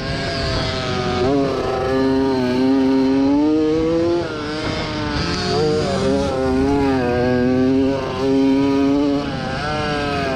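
1987 Yamaha YZ80's small two-stroke single racing under throttle, its pitch repeatedly climbing and falling, with sharp drops about a second in, about four seconds in and about eight seconds in.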